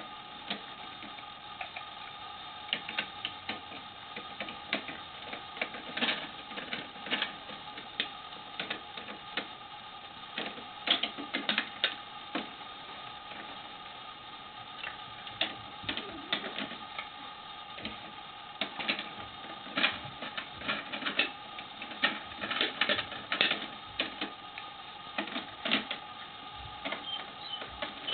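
Plastic toy garbage truck being worked: irregular clicks and clacks of its plastic parts, over a steady high hum.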